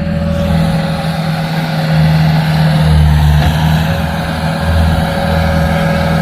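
A diesel engine running steadily, with a constant low hum and rumble.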